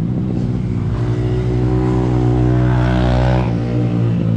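KTM 450 SMR's single-cylinder four-stroke engine running at a fast idle. Its revs creep up slightly, then drop back about three and a half seconds in.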